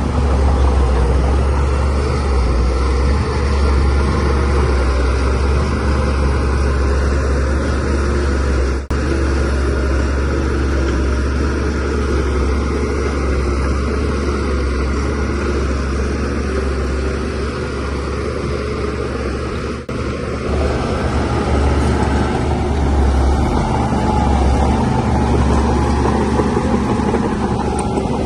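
Diesel engine of a DH17C3 crawler bulldozer running steadily under load, a deep, even drone with two brief dips in level about 9 and 20 seconds in.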